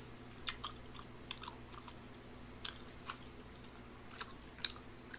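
Close-miked chewing of tteokbokki rice cakes: scattered short, wet mouth clicks at uneven intervals, over a low steady hum.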